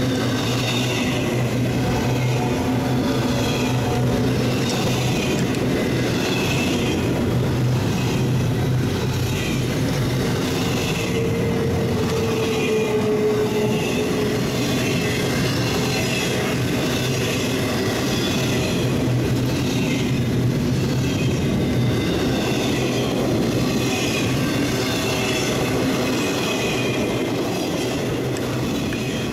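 Double-stack intermodal freight cars rolling past: a steady rumble of steel wheels on rail with regular clacking over the rail joints. A faint wheel squeal rises briefly about halfway through.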